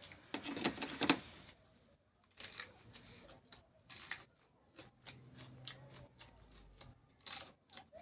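Crisp crunching and chewing of raw vegetables: a run of short, sharp crunches, densest and loudest in the first second or so, then spaced out.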